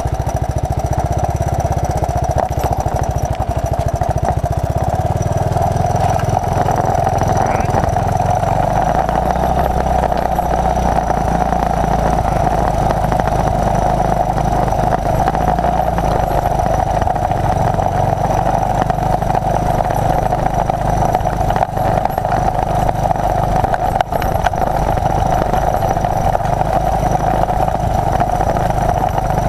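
1981 Honda XL185's single-cylinder four-stroke engine running steadily as the trail bike is ridden, its engine speed shifting about five and again about nine seconds in.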